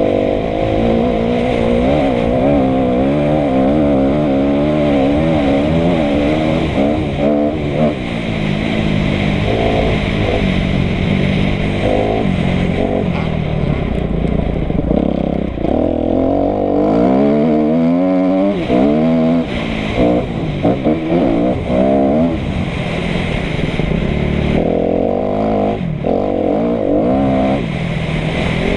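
Kawasaki KX250F's four-stroke single-cylinder engine revving hard and backing off again and again while the motocross bike is ridden around the track. Its pitch climbs under throttle and drops off between bursts, with a long rising sweep about two-thirds of the way through.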